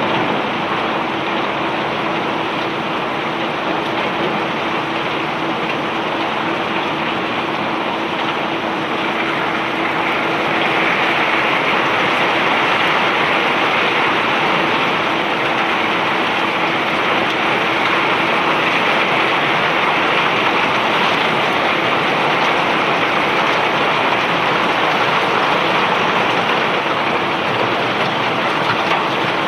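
Bulk cargo pouring off a self-unloading barge's conveyor in a steady rushing stream, over a constant machinery hum. It grows a little louder about ten seconds in.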